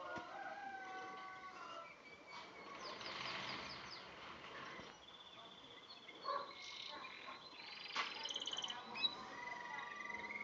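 Canary singing a varied song of whistled notes and glides, with several rolls of fast repeated notes.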